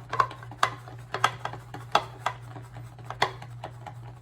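Synthetic shaving brush whipping shaving cream into lather in a shave bowl: quick swishing strokes with sharp clicks and taps against the bowl, a few per second in an uneven rhythm, over a steady low hum.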